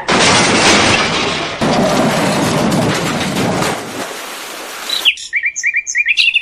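Loud rushing noise for about four seconds, then near the end a run of quick, high chirps, like a bird call sound effect.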